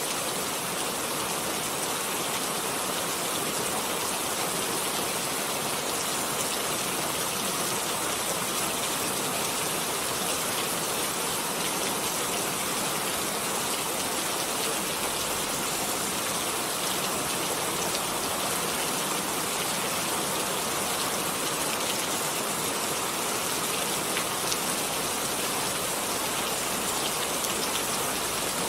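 Steady rain falling, an even hiss of many small drop impacts with no lulls or gusts.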